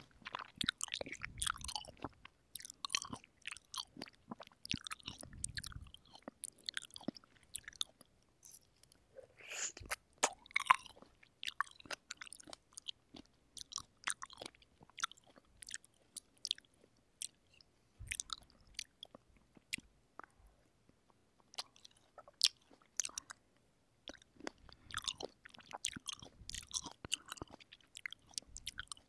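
Close-miked chewing of fresh cherries: juicy, wet mouth sounds and clicks in bursts, with short pauses between bites.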